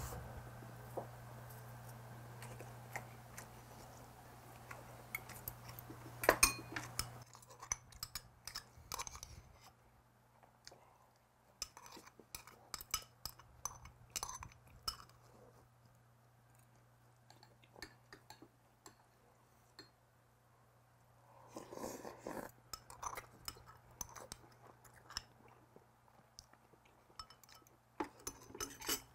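Close-up chewing of food, mixed with irregular light clicks and clinks of metal chopsticks and a spoon against a small porcelain bowl. A low steady hum stops about seven seconds in.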